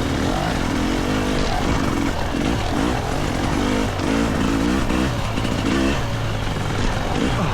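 GasGas EC300 two-stroke single-cylinder dirt bike engine revving up and down, the throttle opened and closed again and again in short rises of pitch.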